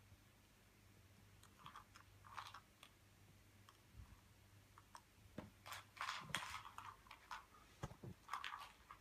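Cat chewing and crunching dry treats: scattered small crunches that come thicker and louder from about halfway through.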